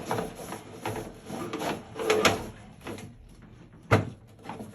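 Irregular scraping and knocking, with one sharp knock about four seconds in.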